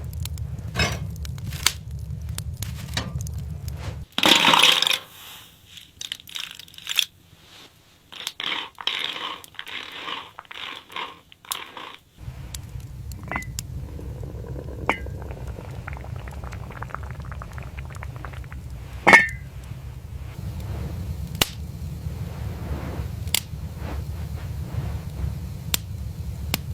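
Scattered crackles and clicks over a steady low rumble. A loud noisy burst comes about four seconds in, followed by a stretch of repeated crunching sounds that ends about twelve seconds in.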